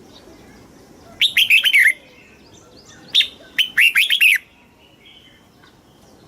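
Red-whiskered bulbul singing: two short phrases of quick, falling notes, the second phrase longer, with a pause of about a second between them.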